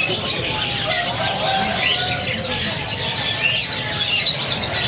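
Parrots chattering and chirping, many short calls and whistled glides overlapping.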